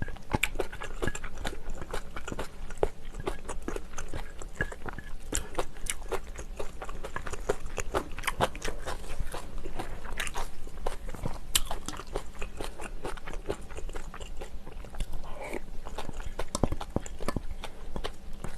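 A person chewing and biting food, with many small irregular clicks and crunches.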